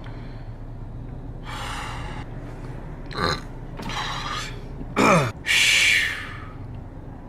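A man's non-speech vocal sounds: several breathy sighs and two falling groans, the second groan loud, about five seconds in.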